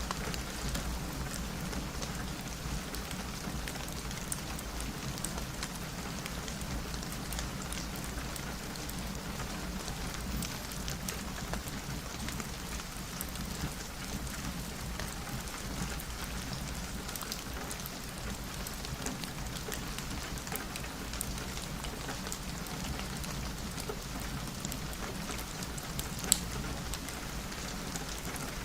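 Steady rain falling on a window, an even hiss with scattered small ticks of drops and one sharper tick near the end.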